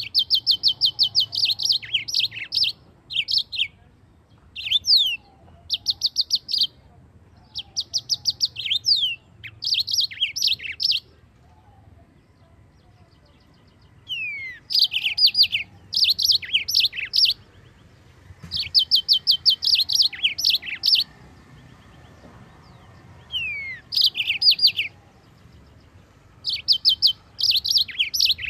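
Yellow-fronted canary (Mozambique canary) singing: rapid high trilled phrases of one to two seconds each, with short pauses between them and a longer pause about halfway through.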